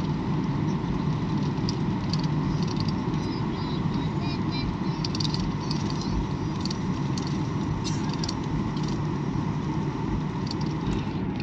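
Steady low rumble of an airliner cabin with the engines running on the ground before takeoff, with a faint steady hum and scattered light clicks and rattles.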